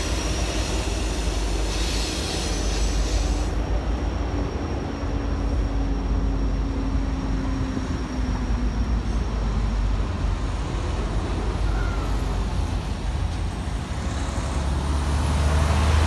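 Norfolk Southern freight train rolling past behind its diesel locomotives: a steady low rumble of engines and cars on the rails, with a brief hiss about two seconds in. The rumble swells near the end.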